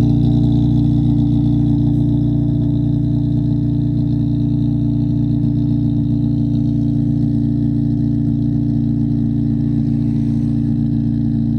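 Acura RSX's K24 2.4-litre inline-four idling steadily after a cold start, getting slightly quieter about two seconds in.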